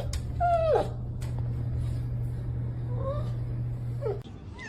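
A dog whining in short whimpers that fall in pitch, the clearest one about half a second in and fainter ones near the end. A steady low hum runs underneath and stops shortly before the end.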